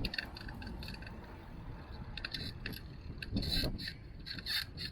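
A bicycle in motion, giving irregular light rattles and clinks over a low rumble of wind and road noise.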